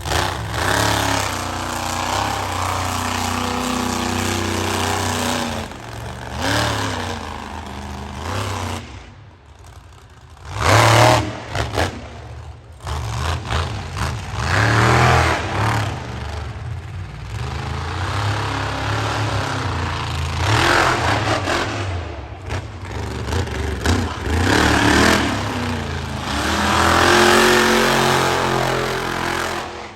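Monster truck engine revving hard again and again, its pitch rising and falling with each burst of throttle, easing off briefly twice near the middle.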